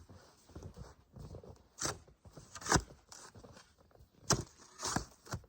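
Snow shovel scooping and scraping through packed snow, with crunching steps: a handful of short, sharp scrapes at uneven intervals.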